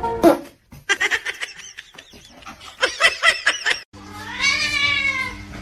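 Two bursts of quick, high-pitched chirping calls, then near the end a cat's long meow that rises and falls, over a steady low hum.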